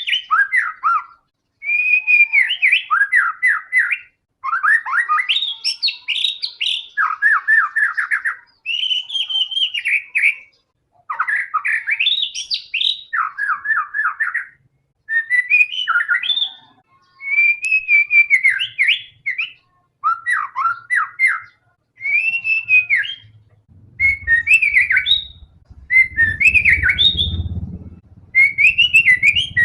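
White-rumped shama (murai batu) singing loudly and without letup: short varied phrases of clear whistles and rapid trills, one after another with brief pauses between them. Near the end a low rumble sits under the song.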